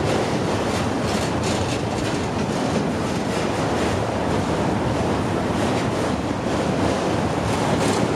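Freight train of autorack cars rolling past at close range: a steady rumble of steel wheels on rail, with occasional faint clicks.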